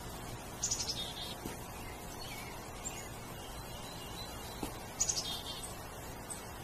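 A songbird singing outdoors: two short phrases of rapid high notes, about a second in and again about five seconds in, with a few fainter chirps between.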